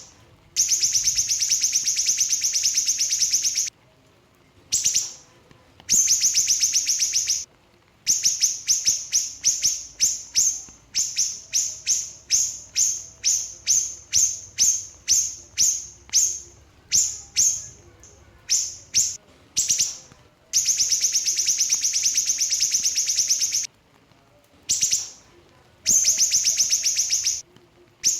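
A small siri-siri songbird singing its rapid-fire song: long high trills of about three seconds each, alternating with runs of quick separate chirps at about three or four a second, with short pauses between phrases.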